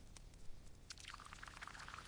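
Wood fire crackling faintly: irregular small pops and crackles, sparse at first and thicker from about halfway.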